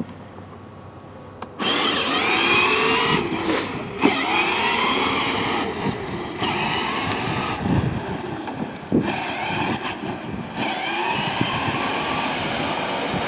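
Battery-powered ride-on toy car driving: its electric drive motors and gearboxes whine, rising and falling in pitch as the pedal is pressed. The whine starts about a second and a half in and drops out briefly a few times when the pedal is let up, with a few knocks from the toy's plastic body bumping along.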